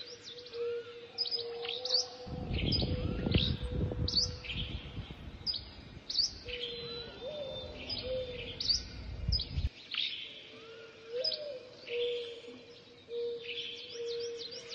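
Several birds singing and chirping in quick, overlapping phrases over a low call that keeps repeating. A gust of wind rumbles from about two seconds in until near ten seconds.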